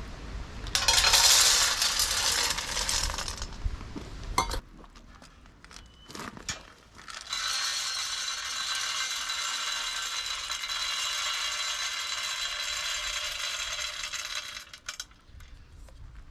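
Wood pellets poured into a metal stove, a dense rattling hiss of many small pellets: a loud pour of about three seconds, a sharp click, then a longer even pour of about eight seconds that stops suddenly.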